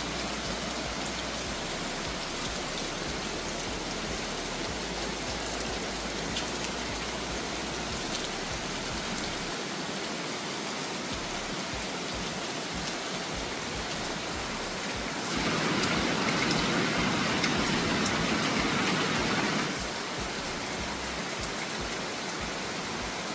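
Steady rain falling, mixed with the rush of river water. About two-thirds of the way through, the rush turns louder for about four seconds, starting and stopping abruptly.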